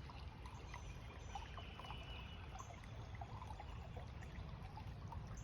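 Faint outdoor background: a steady low rumble with scattered small ticks, and a faint high steady tone for about a second near the middle.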